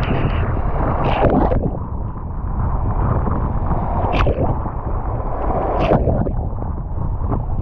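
Wind buffeting the microphone: a steady, loud low rumble, with water sounds mixed in. Three brief, sharper noises come about a second, four seconds and six seconds in.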